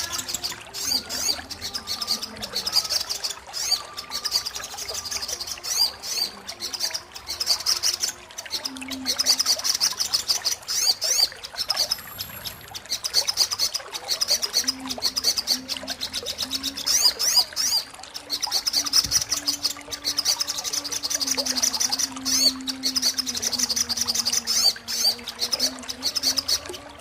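Sogon bird singing: a rapid, continuous run of high chirps and twitters. A low steady hum runs underneath through much of the second half.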